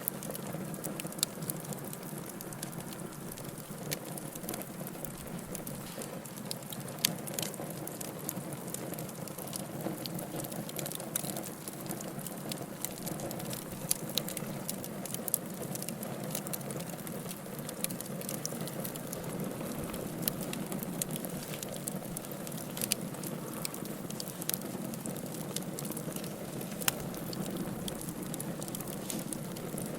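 Wood fire burning in a fireplace: a steady low rushing hiss with irregular crackles and sharp pops scattered throughout.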